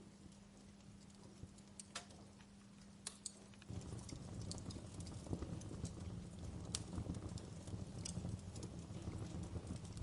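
Wood fire crackling in a fireplace: irregular sharp pops and snaps over a low rumble of flame, which grows louder about four seconds in.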